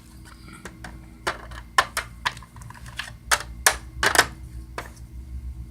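Irregular sharp taps and clicks, about a dozen, of small plastic toy figures being hopped and set down on a hard surface, over a low steady room hum.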